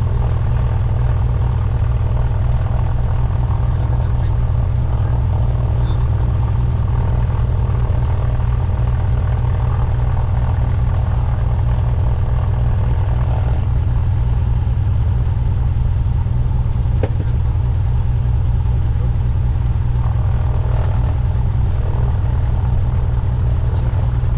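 Cessna 172's piston engine and propeller running steadily at constant power, a deep unchanging drone.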